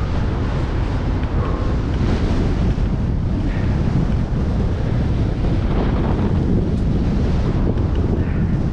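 Strong wind buffeting the microphone of a cyclist's camera, a loud, steady rumble.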